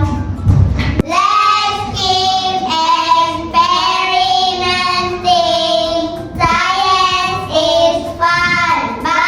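A child singing a song, in long held notes of about a second each.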